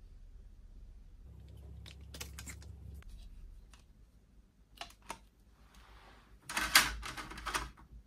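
A run of sharp mechanical clicks and clatter, loudest in a cluster about six and a half to seven and a half seconds in, with a low steady hum for a couple of seconds near the start.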